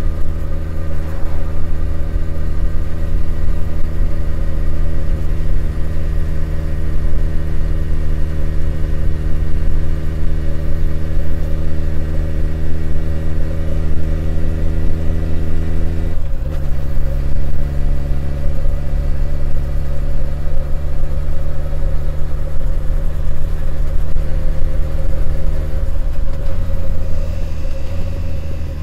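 Honda CB1100EX's air-cooled inline-four running steadily under way, heard from on the bike. The engine note steps down suddenly about halfway through and changes again near the end.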